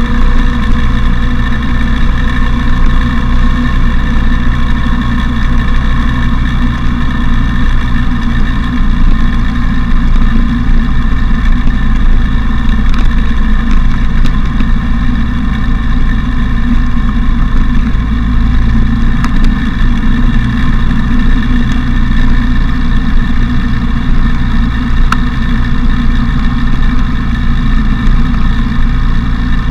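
Motorcycle engine running at a steady cruise, with heavy wind rumble on the action camera's microphone, the bike ridden without its windshield.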